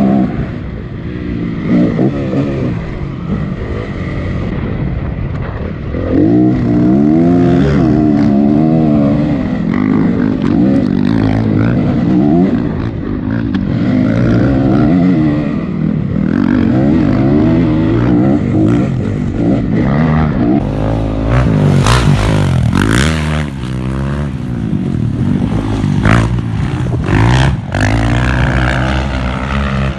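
Honda CRF250 dirt bike's single-cylinder four-stroke engine revving up and down over and over as it is ridden on a motocross track. Several sharp knocks and rattles come through in the second half.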